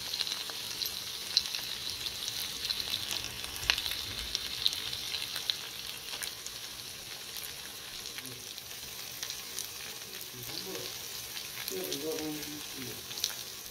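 Chicken pieces sizzling in hot oil in a frying pan: a steady high hiss scattered with sharp crackles and pops, the pops thickest in the first few seconds and the sizzle easing a little in the second half.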